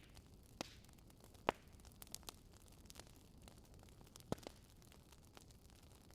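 Wood fire crackling in a fireplace: scattered sharp pops and snaps, one every second or so, with the loudest about a second and a half in, over a faint steady hiss.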